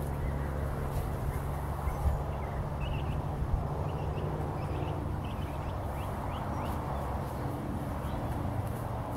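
A steady low rumble in the background, with a run of short, high bird chirps from about three to seven seconds in.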